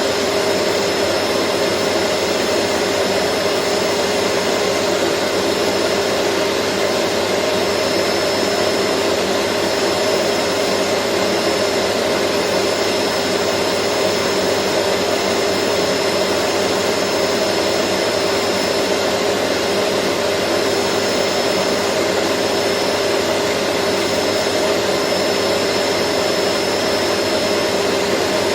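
Vacuum cleaner running steadily, an even whooshing noise with a constant motor whine and a thin high tone on top.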